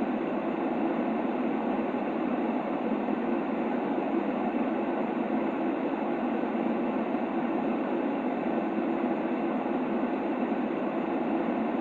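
Steady, unchanging baby-sleep white noise: a smooth, even hiss that sits low and mid-pitched rather than bright, without any rhythm or change.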